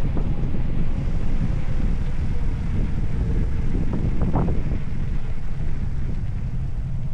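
Steady low rushing rumble of wind buffeting the microphone, with a brief fainter sound about four seconds in.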